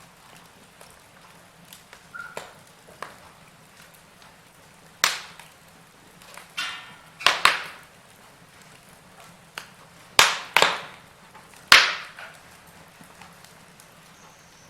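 Log fire in a fireplace crackling: scattered sharp pops from the burning wood, with several loud ones bunched in the middle, over a faint steady hiss.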